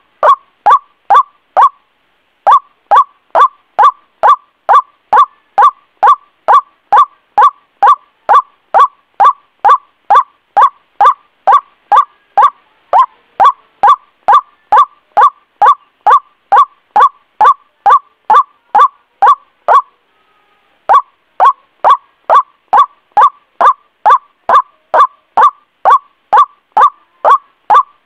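White-breasted waterhen (ruak-ruak) calling: a loud, fast run of short, identical notes, about two to three a second. The run pauses briefly about two seconds in and again about twenty seconds in. This is a lure call, used to draw the birds in.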